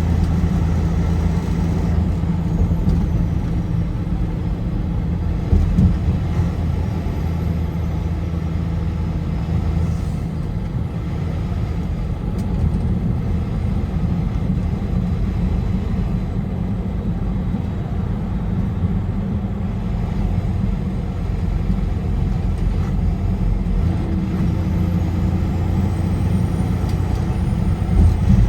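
Car driving at highway speed: a steady rush of road noise with a low engine hum, and a brief thump about six seconds in and another near the end.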